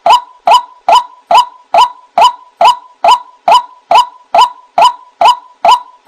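White-breasted waterhen giving its repeated 'wak' call in a steady, even rhythm, about two loud notes a second.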